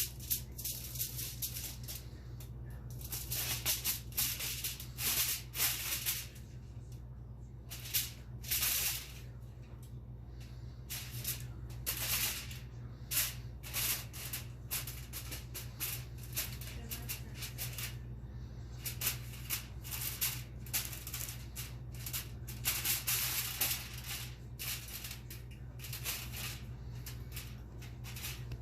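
Aluminum foil crinkling and rustling in irregular bursts as a cat handles it, over a steady low hum.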